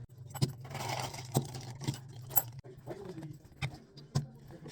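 Small hard objects clinking and rattling as belongings are handled, with a noisy rustle in the first second and a half and a string of sharp clicks and knocks, over a steady low hum.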